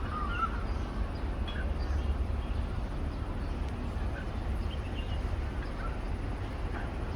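Birds calling in short, faint, scattered chirps over a steady low rumble.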